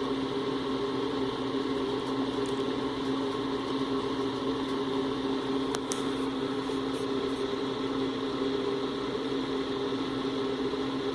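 Fan of a 1950s Airflow Everhot model 915 electric heater running on its fan-only setting, heating elements off. Its four-bladed fan and motor give a steady hum over an even rush of air.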